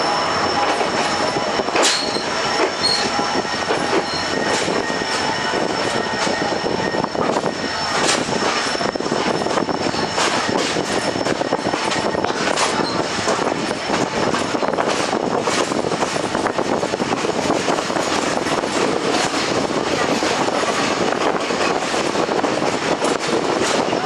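Express passenger train of ICF coaches running along the track: steady wheel-on-rail rumble with many irregular clicks over rail joints, and a thin, steady high squeal from the wheels.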